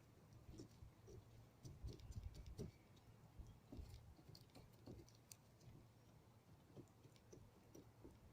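Faint, scattered light clicks and soft taps of hand work on a fibreglass repair, laying resin-wetted glass-fibre strands, over a low steady hum.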